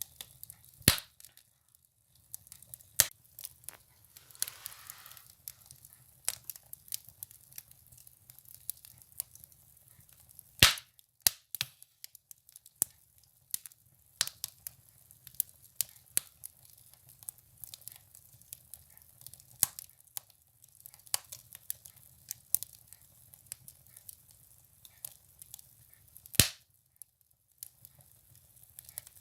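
Firewood burning in a stove, crackling with irregular sharp pops. The loudest pops come about a second in, near eleven seconds and near the end, with a brief hiss about four seconds in.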